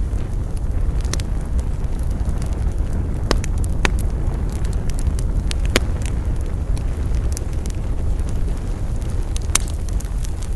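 Wood fire crackling: irregular sharp pops and snaps over a steady low rumble, with a few louder pops scattered through.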